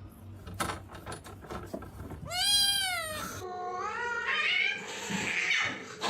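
Cat meowing: after a few faint taps, one loud drawn-out meow that rises and falls in pitch, then a shorter meow.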